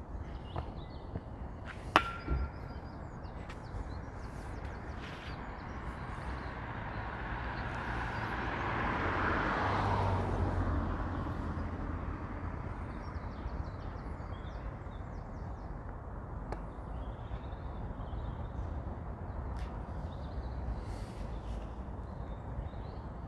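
A vehicle passes by, its noise swelling to a peak about ten seconds in and then fading, over an outdoor background with birds chirping. A single sharp click sounds about two seconds in.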